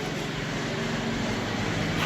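A steady engine drone with a low rumble, growing slightly louder: a passing vehicle or aircraft.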